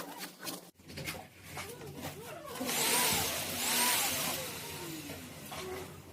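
Vacuum cleaner running. Its pitch rises and falls twice, about three and four seconds in.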